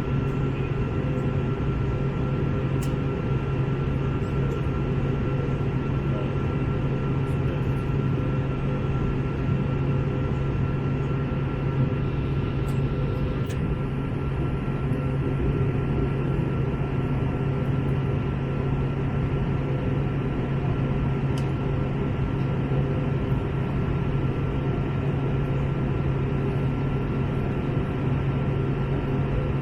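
Steady cabin noise of an Airbus A321 airliner in flight: an even rush of engine and airflow with a constant low hum and a faint high whine running through it.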